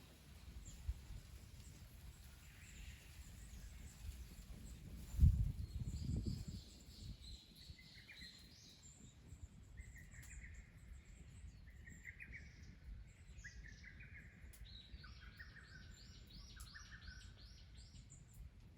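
Small birds calling: a run of short chirps and, near the end, a rapid high trill. A brief low rumble about five seconds in is the loudest sound.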